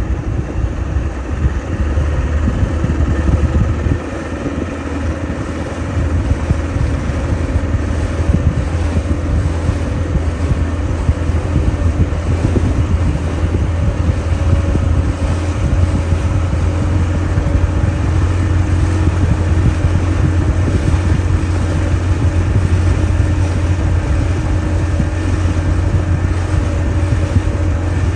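Motorboat engine running steadily: a strong low drone with a steady hum above it, with some wind buffeting the microphone.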